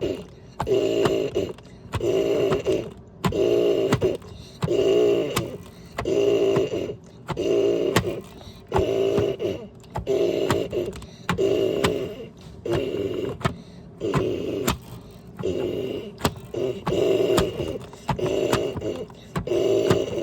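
Washing machine running its wash cycle: the motor drives the load back and forth in a regular rhythm, about one whirring stroke a second, with a click and a thin high whine on each stroke.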